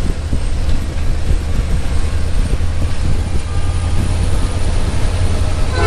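Motorcycle engine and wind noise while riding, a steady low rumble. Near the end a train horn starts to blow, a steady chord of several tones.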